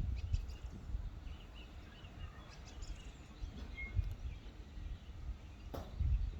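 Faint, scattered bird chirps over a low rumbling background noise, with a sharp click a little before the end.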